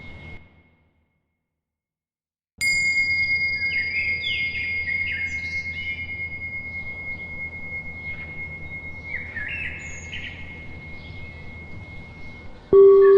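A high-pitched bell is struck after about two seconds of silence and rings out in a long, slowly fading tone, while small birds chirp in quick repeated phrases. Near the end a lower-pitched bell is struck.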